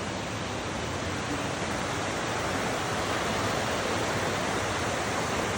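Steady rushing of a mountain stream or cascade, an even wash of water noise with no breaks.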